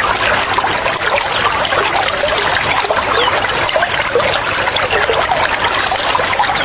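Running water trickling and pouring, with small birds chirping over it in quick runs of short falling notes, a few times.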